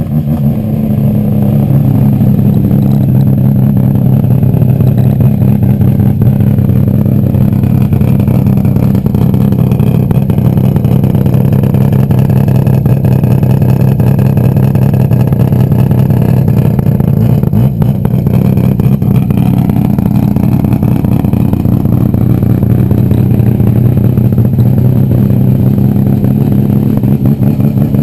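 A Mazda RX-7 Group B rally car's rotary engine idling loudly at close range, swelling over the first second or two and then holding a steady idle.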